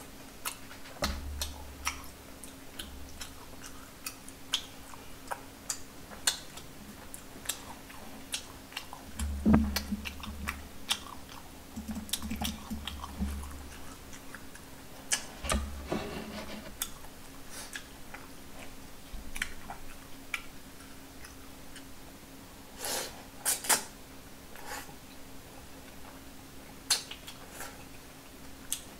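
Close-up chewing of Chinese takeout food, chili shrimp and noodles, with many sharp chopstick and dish clicks and a few low thumps, the loudest about nine and a half seconds in. A faint steady hum runs underneath.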